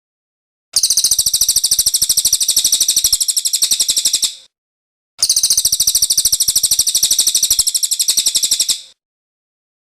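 Cililin songbird singing two long, rapid chattering trills of about fifteen notes a second, each lasting three to four seconds, with a short pause between.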